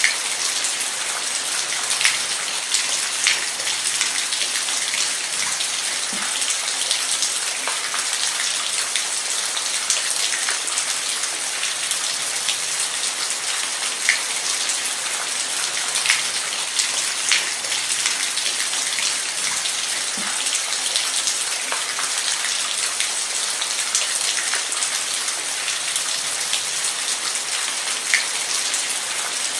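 Steady rain falling on a surface, a dense even hiss with scattered sharper drops ticking through it.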